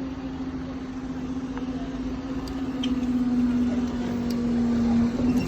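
Diesel train engine droning as a steady low hum that sinks slightly in pitch, then cuts off shortly before the end.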